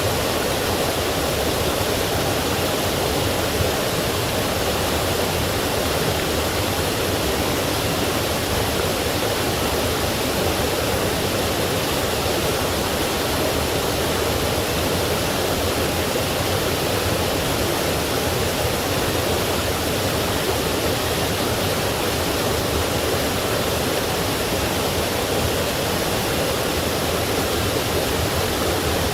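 Forest stream rushing and splashing over rocks with a waterfall, a steady, even roar of water.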